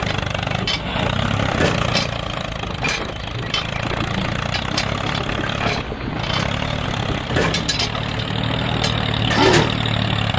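A tractor engine runs steadily at idle, with light irregular clanks on top.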